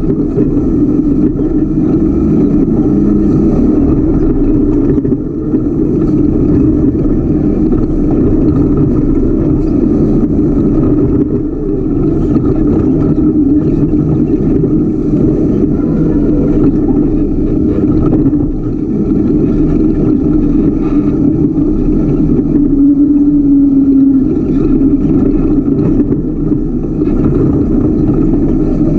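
Ultra4 race car's engine running hard under throttle, heard from on board, loud and continuous. Its pitch wavers with the throttle, and the loudness dips briefly about five, twelve and nineteen seconds in.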